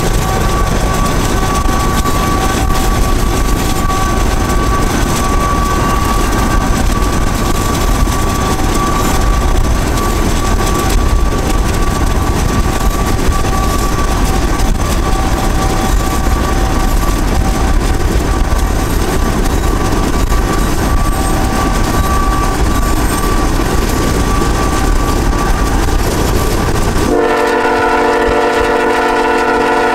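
Canadian Pacific diesel freight train rolling alongside, heard from a car pacing it: a steady rumble of locomotives and wheels mixed with road and wind noise. About three seconds before the end, the locomotive's multi-chime air horn comes in as a loud steady chord.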